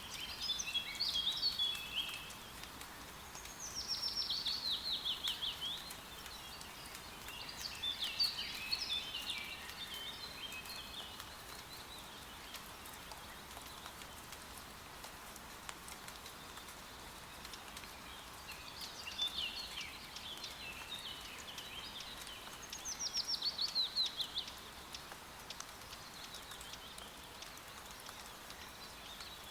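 Light rain pattering over a forest with songbirds singing in short phrases. Five bursts of song, two of them quick trills of falling notes, come and go between gaps of softer rain.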